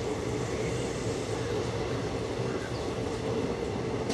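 Passenger express train running steadily at speed, an even rumble of wheels on the rails.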